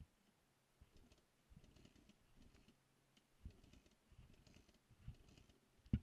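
Near silence with scattered faint clicks and knocks, with a sharper knock near the end.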